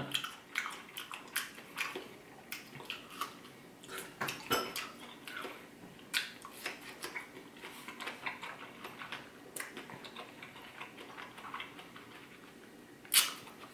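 Close-up chewing of a crisp, juicy persimmon: a run of irregular wet crunches and mouth clicks, with a louder noise near the end.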